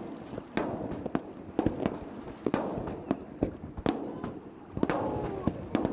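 Fireworks shells bursting over a lake in a rapid, irregular series of sharp bangs, several a second.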